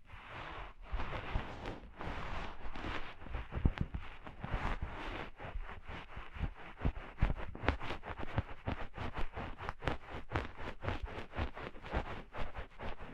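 Close-miked ear-cleaning sounds: ear picks scratching and scraping inside a binaural microphone's ear. The first half is rough continuous scratching; the second half turns into quick repeated strokes, a few a second.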